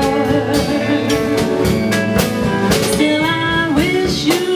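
Live band playing a folk ballad: a drum kit keeps a steady beat under guitar and sustained chords, and a singing voice comes back in about three seconds in.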